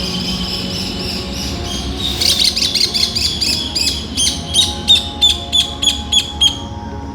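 A bird calling in a quick series of sharp, high chirps, about three a second, starting about two seconds in and spacing out before stopping near the end. A steady high chirring sound comes before the chirps, and faint steady low tones run underneath.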